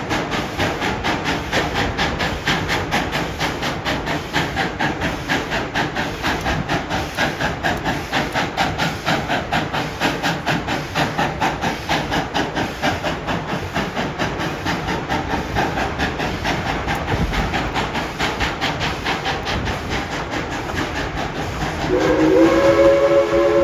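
Tweetsie Railroad's Engine 12 steam locomotive working along with a steady, rhythmic chuffing exhaust. Near the end its multi-tone chime whistle starts blowing.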